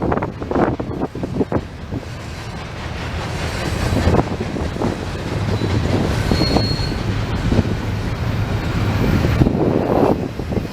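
Intermodal freight cars rolling past at close range: a steady low rumble with clusters of clattering wheel clicks over the rail joints at the start and again near the end, and a brief high wheel squeal about six seconds in.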